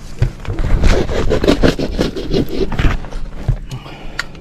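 Irregular scraping and rustling of ductwork and its insulation being handled and pulled on, busiest in the first three seconds and thinning out near the end.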